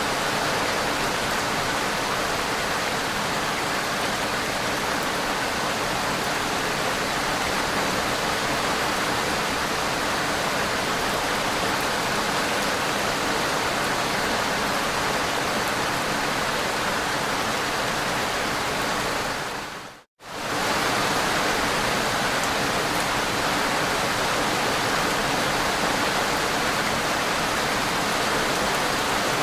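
Steady rain, an even hiss with no distinct drops. About two-thirds of the way through it fades out to silence for a moment and comes straight back at full level.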